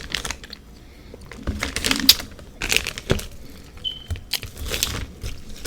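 A few separate crinkling, crunching sounds close to the microphone, from handling the packed freezer frost ice and its container as toppings are readied.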